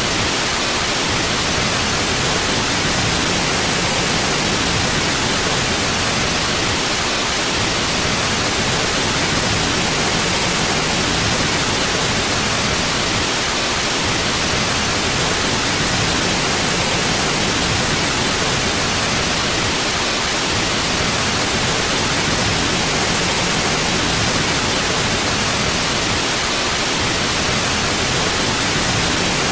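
Steady, unchanging electronically generated white noise: an even hiss across the whole range with no events or variation.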